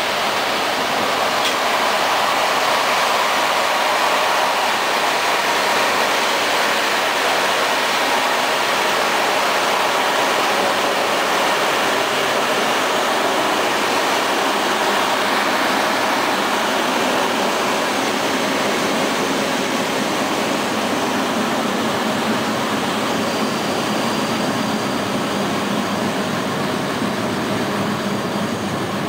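Passenger train running along the line: a steady, loud rush of wheels on rails and air noise, with no change in pace.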